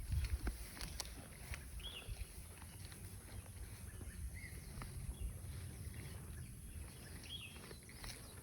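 Outdoor ambience with about three short bird chirps, spread a few seconds apart, over a low rumble. A few sharp clicks come in the first second.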